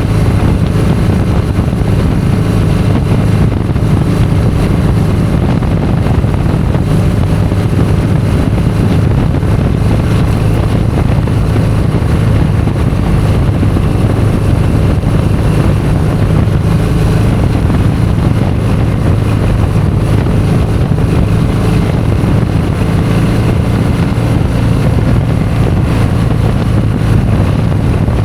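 Motorcycle engine running steadily at cruising speed, with a constant rush of wind and road noise over it.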